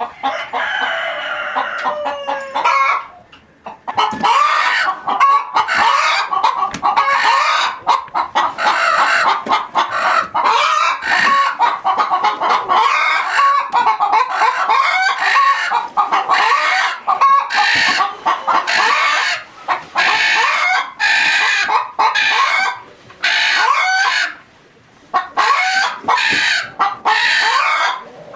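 A flock of chickens clucking and squawking almost without a break. It opens with a rooster's crow, one long call of about three seconds that falls away at the end.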